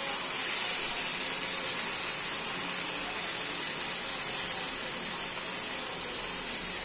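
Half-cooked chicken pieces in masala sizzling steadily in a nonstick frying pan as a spatula turns them.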